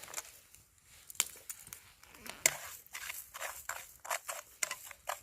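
A string of irregular sharp clicks and crackles that starts about a second in.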